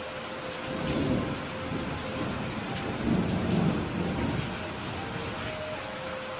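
Steady heavy rain with rolling thunder: a low rumble swells about a second in, and a louder, longer one comes around three to four seconds in.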